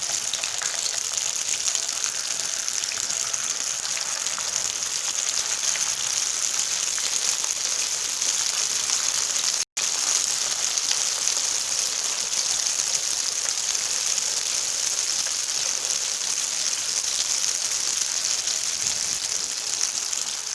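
Nems (spring rolls) deep-frying in hot oil with a steady sizzle that breaks off for an instant near the middle. This is their first fry, which leaves them pale so that a second fry can make them crisp.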